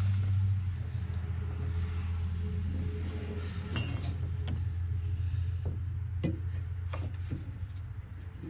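A few short knocks and clicks from hands working a drive belt around a finish mower deck's pulleys and guards, over a steady low hum.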